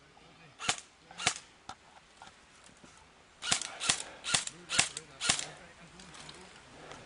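Airsoft guns firing single sharp shots: two a little over half a second apart, then after a pause a run of five at about two a second.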